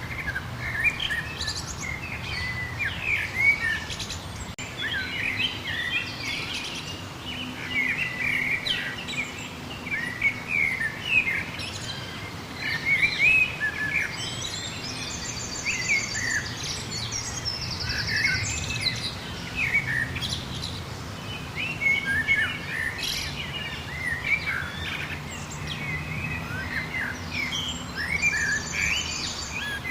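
Several songbirds chirping and singing together, many short overlapping calls, with a fast, high trill a few times. A faint low steady hum runs underneath.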